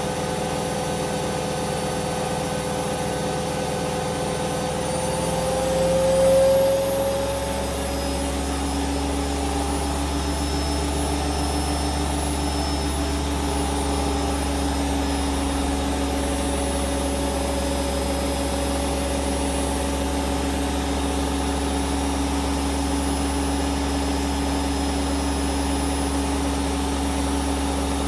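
Hoover Dynamic Vision washing machine spinning at high speed with a steady motor whine and drum hum. About six seconds in, the whine rises in pitch and briefly gets louder, then settles into a steady spin.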